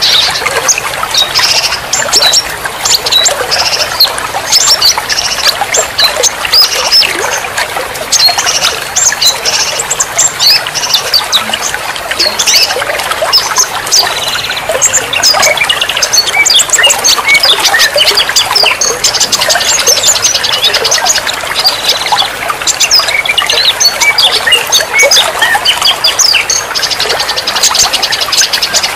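Dense chorus of songbirds chirping, trilling and squawking in quick, overlapping bursts, over a steady hiss like running water.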